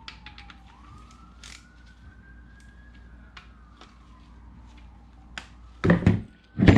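A distant siren wailing faintly, its pitch slowly falling, rising and falling again. Scattered light clicks and knocks run underneath, with two louder knocks near the end.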